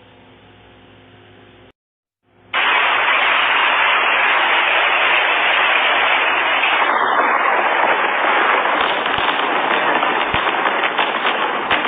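Faint electrical hum, then after a cut about two and a half seconds in, heavy rain pouring, loud and steady, with a few light crackles near the end.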